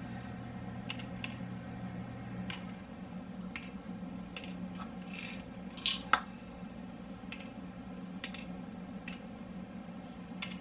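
Small pills clicking as they drop one by one into the compartments of a plastic pill organizer, about a dozen sharp clicks at uneven intervals.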